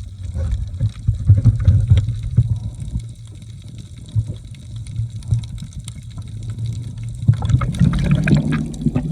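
Low, muffled water sloshing and rushing with scattered sharp clicks; a steady low hum comes in about seven seconds in.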